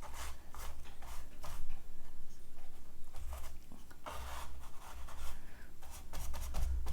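Torn paper pieces being handled, shifted and rubbed on a work surface: a run of short dry rustles and scrapes, with soft low knocks.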